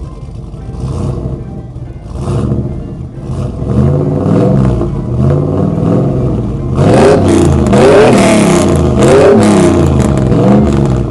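Engine revving over and over, its pitch rising and falling, getting louder about halfway through, with music underneath.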